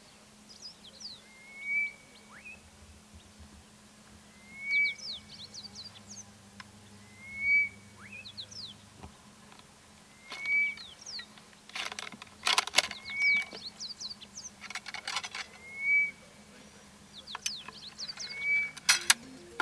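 A bird calling outdoors with a short whistled note repeated about every three seconds, with quick higher chirps between. Around the middle and near the end come rattling clusters of clicks from the ramrod as a sabot bullet is pushed down the barrel of a .50 calibre in-line muzzle-loader.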